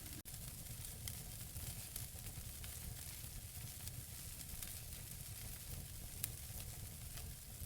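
Wood fire burning in a fireplace: a steady crackle of small pops and snaps over a low rumble and hiss, with a sharper pop about six seconds in.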